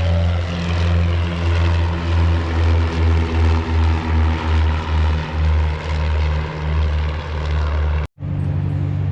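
Light propeller airplane's piston engine running close by, its drone throbbing about twice a second. It cuts out abruptly for a moment about eight seconds in and comes back as a steadier drone.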